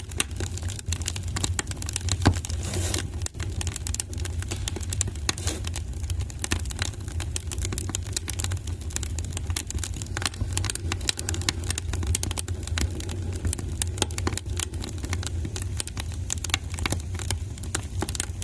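Wood fire burning in a fireplace: constant irregular crackling and popping over a steady low rumble, with one louder pop about two seconds in.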